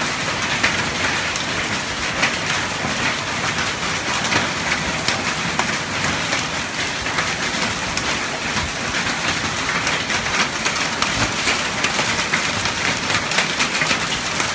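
Heavy rain mixed with hail coming down hard: a steady hiss with dense, irregular ticks of hailstones striking surfaces.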